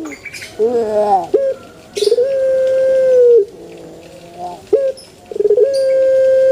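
Male ringneck dove (puter) cooing: long, steady, held coos that drop in pitch at the end, repeated, with shorter wavering and stuttering notes between them.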